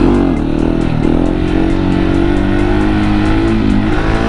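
A 701 motorcycle's single-cylinder engine running under way, heard with wind rushing over the helmet microphone; the engine pitch drops at the start and dips briefly about a second in and again near the end, as through gear changes or easing off the throttle.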